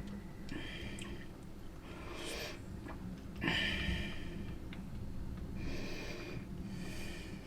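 A person breathing noisily through the nose close to the microphone: about five short hissing breaths, spaced irregularly, over a low steady hum.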